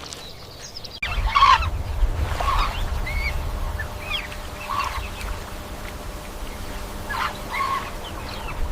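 Domestic fowl calling: short, separate calls, about six of them, begin about a second in, over a steady low rumble.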